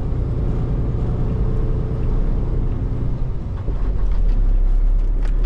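Semi-truck diesel engine running with a steady low rumble, growing somewhat louder a little over halfway through.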